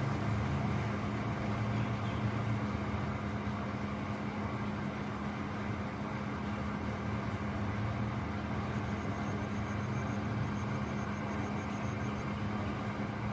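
Steady mechanical drone with a constant low hum, like a running vehicle. A faint, high, rapidly pulsing chirp comes in for a couple of seconds near the end.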